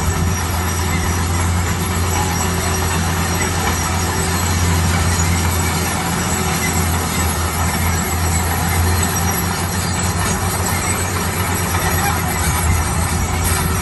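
Heavy road-construction machinery running steadily: a low diesel engine hum under constant mechanical noise.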